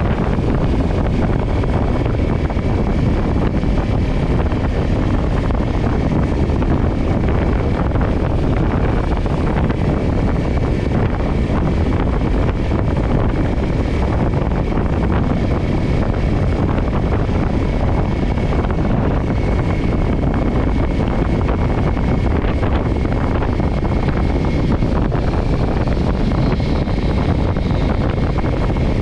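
Kawasaki Ninja 400's parallel-twin engine running steadily at a cruise, mixed with wind rushing over the GoPro's microphone.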